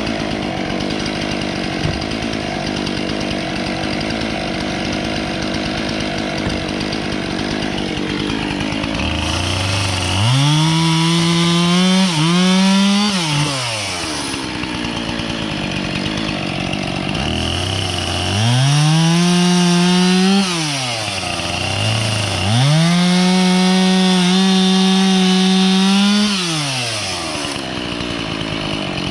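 Husqvarna two-stroke professional chainsaw idling, then run up to full throttle three times for a few seconds each as it cuts through dry oak, dropping back to idle between cuts.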